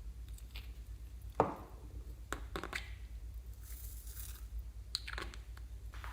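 Hands working with slime-making materials: a sharp knock about a second and a half in, a few light clicks and taps, and a short crinkly rustle near the middle, over a steady low hum.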